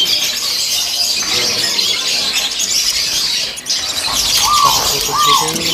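Many caged birds chirping together in a dense, constant chatter. About four seconds in, a louder squawking call starts repeating in quick succession, each one rising and falling.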